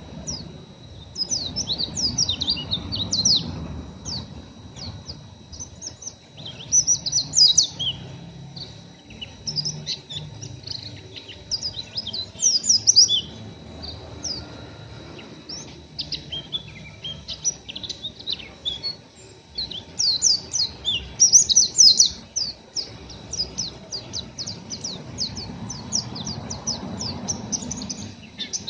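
Pleci (white-eye) twittering a rapid, rough chatter of short high chirps in irregular bursts: the coarse 'ngeriwik kasar' twitter of a still-untrained bird.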